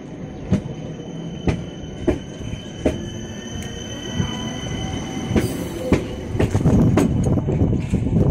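Stadler FLIRT electric multiple unit running past close by: its wheels click over rail joints about once a second, over thin high ringing tones and a faintly rising whine. The rumble grows heavier near the end.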